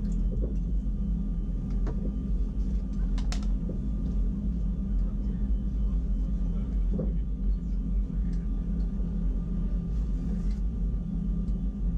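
Wengernalp Railway electric rack train running: a steady low rumble of motors and running gear with a faint steady whine, and a few sharp clicks and knocks from the wheels and track.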